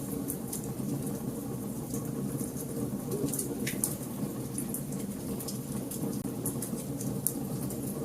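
Wood fire burning in a fireplace: a steady low rumble of flames with frequent small crackles and pops, one louder crack near the middle.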